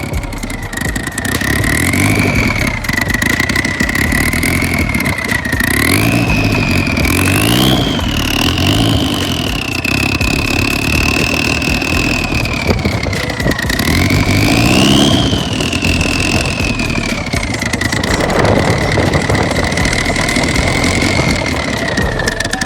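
Car engine idling through its exhaust and blipped up twice, about a third of the way in and again past halfway, with a high whine that rises and falls with the revs.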